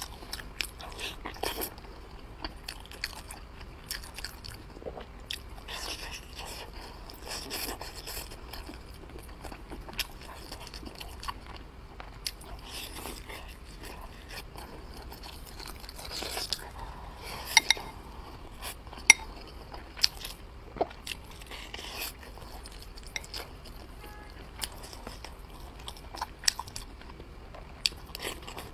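Close-miked eating: biting and chewing soft braised tofu-skin-wrapped pork rolls with rice, with irregular sharp clicks and mouth smacks throughout, a few louder clicks a little past the middle.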